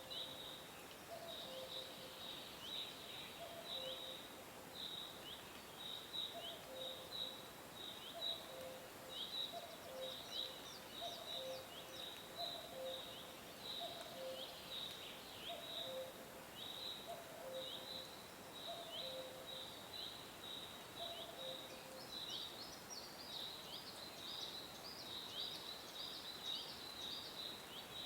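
Songbirds chirping: a dense run of short, quick downward chirps, with a lower two-note call repeating about once a second until about two-thirds of the way through.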